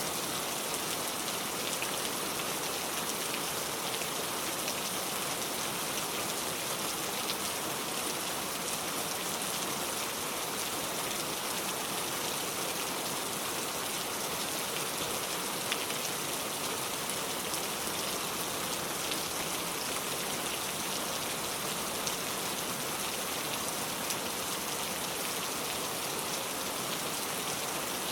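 Steady rain falling and pattering on a surface, an even hiss of many drops with occasional sharper single drop ticks.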